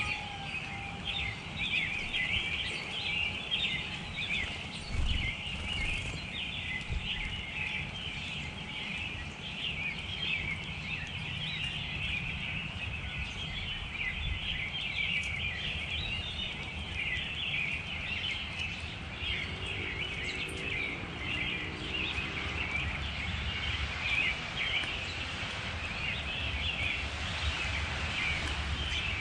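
A flock of small songbirds chirping continuously, many short overlapping calls at once, over a steady low background rumble.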